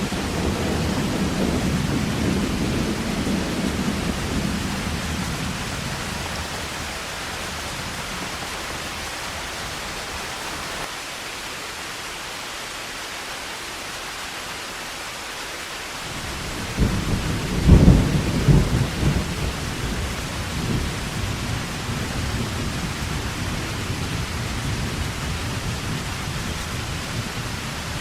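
Heavy rain falling steadily with thunder: a low rumble fading over the first few seconds, then a sudden loud thunderclap about 17 seconds in that rolls on as rumbling.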